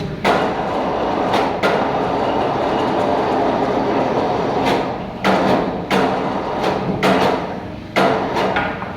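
Metal pipe couplings knocking and clanking as they are fitted into a box: irregular sharp knocks, about eight of them, over a steady rattling noise.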